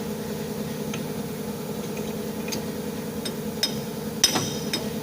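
A steady engine hum at idle, with light metallic clicks and taps of tools on metal in the second half, about five in all. The last two, near the end, are the loudest knocks.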